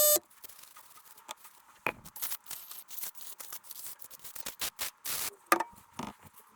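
Irregular small clicks, taps and knocks of parts being handled on a workbench, with two louder knocks about 2 and 5.5 seconds in. A steady electronic beep cuts off just as it begins.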